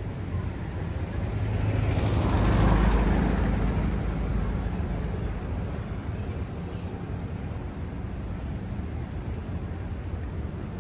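A vehicle drives past on the street, swelling to its loudest two to three seconds in and then fading. From about halfway, a bird gives a series of short, high chirps in quick groups.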